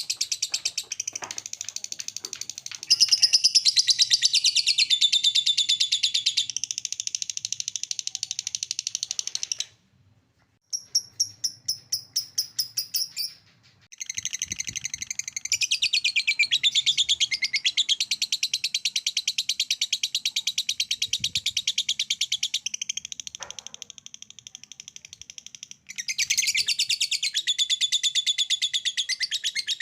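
Lovebird ngekek: a long, rapid, high chattering trill. It stops abruptly about ten seconds in, gives way to a short run of separate chirps, then resumes. It falls quieter for a few seconds near the end before coming back loud.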